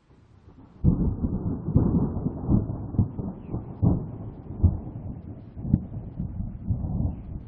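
Wind gusting against the microphone: a low, uneven rumble with sudden buffeting peaks that comes in about a second in and eases off near the end.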